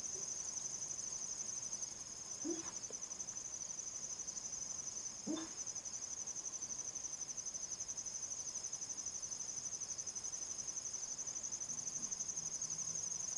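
Steady high-pitched insect chorus, a continuous fine pulsing trill in the style of crickets. Two short rising chirps are heard, about two and a half and five seconds in.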